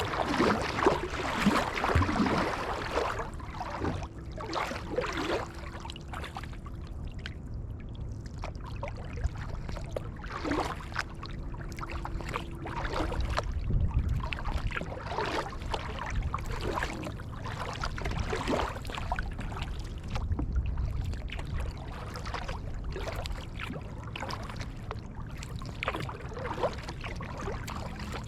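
Kayak paddle blades dipping and pulling through sea water, a splash on each stroke about every second or so, with water washing along the hull.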